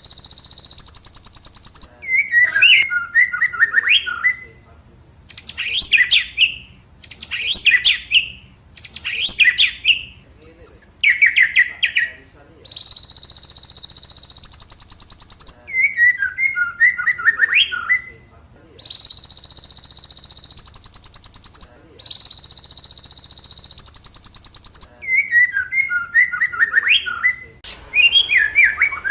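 White-rumped shama (murai batu) singing loudly in varied phrases: long, rapid trills held at a high pitch alternate with quick runs of downward-sweeping whistles and jumbled twittering notes, with short pauses between phrases.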